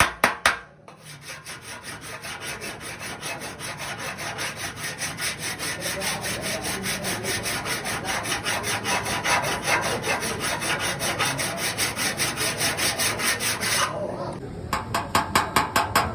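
Hand tool worked rapidly against a car body panel in an even rhythm of about four strokes a second: sharp, loud strikes in the first second and again near the end, with softer rasping strokes in between.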